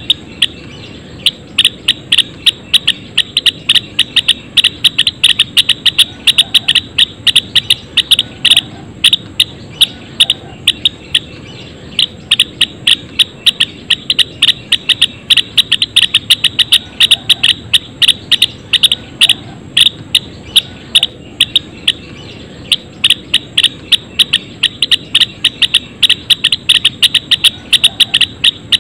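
A flock of Java sparrows chirping: a dense, continuous run of short, sharp chirps, several a second, overlapping from many birds.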